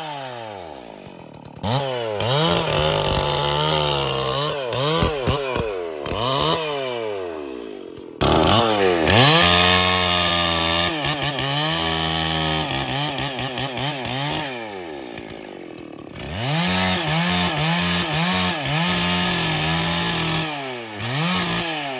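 Stihl MS440 two-stroke chainsaw cutting bayur wood. The engine revs up and holds at full speed for several seconds at a time, dropping back toward idle in between, about three times over.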